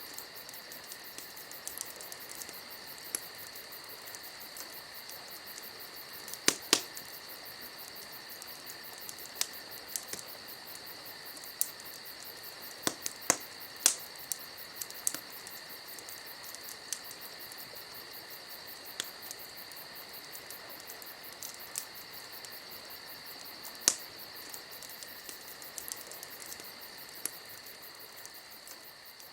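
Campfire crackling, with sharp pops scattered irregularly and the loudest about a third and halfway through and again near the end, over a steady, high chirring chorus of crickets. The whole fades down over the last couple of seconds.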